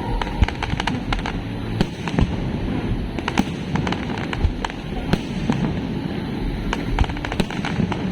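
Aerial fireworks going off in a dense barrage: many sharp, irregular cracks and pops over a constant low rumble of bursts.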